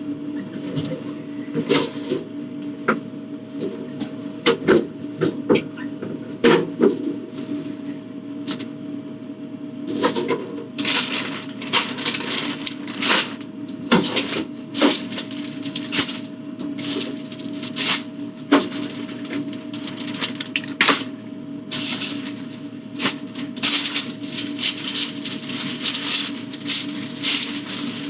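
Items from a refrigerator being handled and moved about: quick irregular clicks, knocks and rustles of containers and packaging. They grow busier about eleven seconds in and again over the last several seconds, above a steady low hum.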